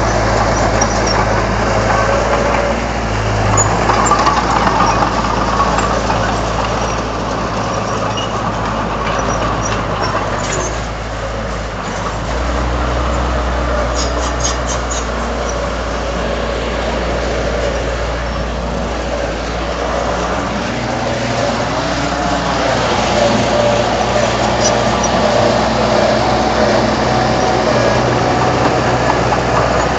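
Heavy diesel earthmoving machinery running under varying load, its engine note shifting about a third of the way in and rising and falling a little past the middle.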